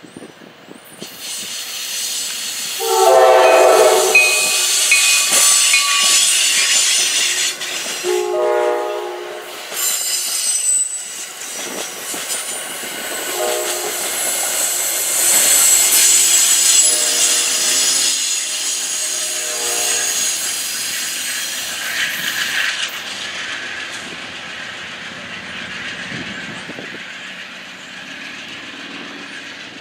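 Passenger train passing with its horn sounding: two loud blasts, then shorter, fainter ones, over the rush and clatter of the cars, which fade toward the end.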